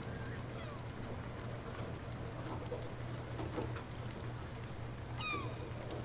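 Light rain falling steadily, with scattered faint drips over a constant low hum. About five seconds in comes a short descending animal call.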